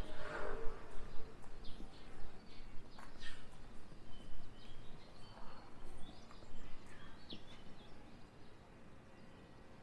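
Small birds chirping in short, scattered high calls over a steady low rumble of background noise.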